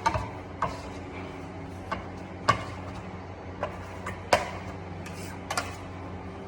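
Irregular short taps and scrapes of a hand tool working a plastered wall, about seven in a few seconds, over a steady low hum.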